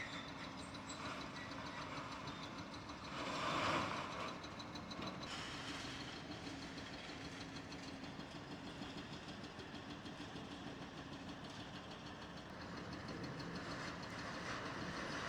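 Heavy diesel demolition equipment running steadily, with a louder burst of clattering noise about three and a half seconds in.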